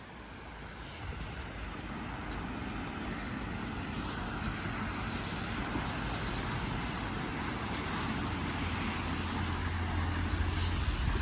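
A steady engine sound with a low hum, growing gradually louder, as of a vehicle approaching.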